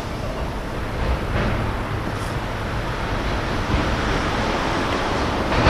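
Steady rushing outdoor noise: wind on the microphone with a low rumble underneath.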